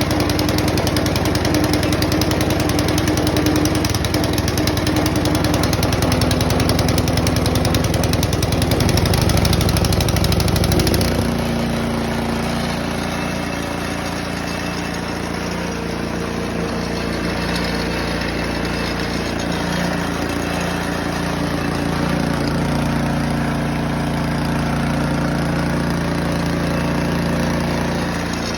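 Troy-Bilt 2410 snow blower's small gas engine running steadily. About eleven seconds in, its note changes and it becomes a little quieter.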